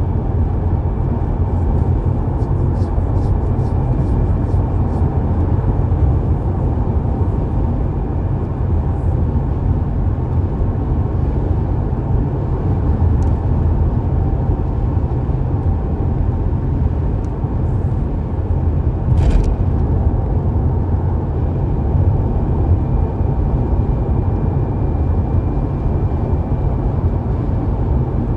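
A car driving along a road: a steady low rumble of road and engine noise, with a few faint ticks and one sharper click about two-thirds of the way through.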